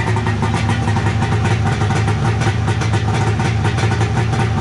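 Polaris 650 three-cylinder two-stroke snowmobile engine with SLP aftermarket pipes, running loud at a steady speed in a small garage.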